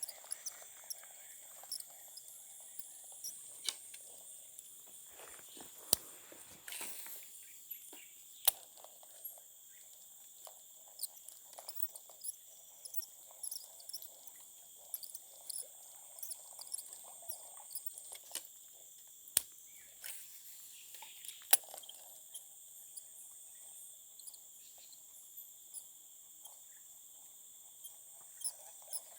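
Steady high-pitched insect chorus, with scattered sharp clicks and knocks throughout.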